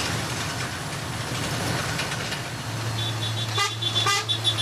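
Logging truck engine running steadily. From about three seconds in, a run of short high-pitched beeps comes over it.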